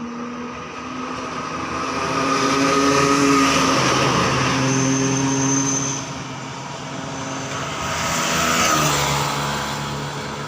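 Truck engine running as trucks drive past, growing louder to a peak about three seconds in and again near the end, its pitch stepping up and down a few times.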